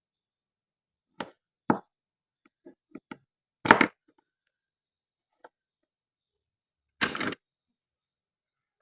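Plastic and wooden toy fruit being handled and cut with a toy knife: a scattering of short clicks and taps, with two louder, longer bursts about three and a half and seven seconds in.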